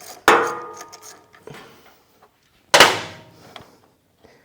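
Two loud clanks of metal parts against a hard surface, about two and a half seconds apart; the first rings briefly.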